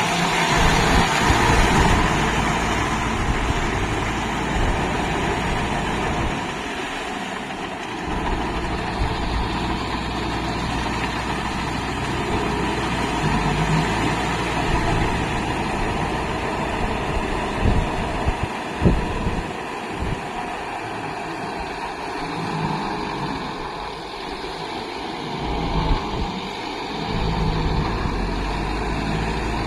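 Kubota MU5502 tractor's diesel engine running steadily, its level rising and falling, with a sharp click about two-thirds of the way through.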